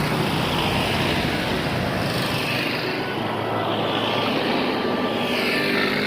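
Steady rush of wind noise on the microphone of a cyclist's camera while riding at speed.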